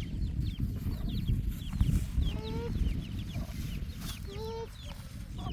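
Chickens clucking, with two longer drawn-out calls about two and a half and four and a half seconds in, among many short high chirps, over a steady low rumble.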